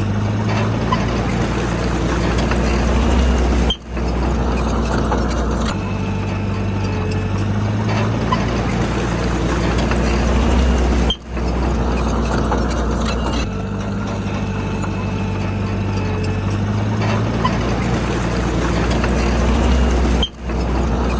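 Komatsu D31P crawler bulldozer's diesel engine working, its low note shifting between a higher and a deeper pitch every few seconds as the load changes. The sound cuts out briefly three times.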